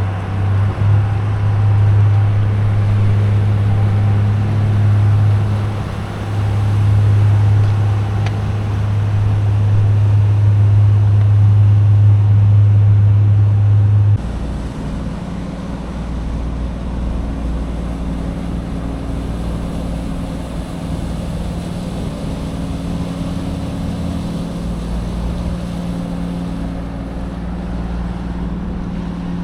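Steady low engine drone of a small ferry boat underway. About halfway through it cuts abruptly to a different, lower-pitched engine hum.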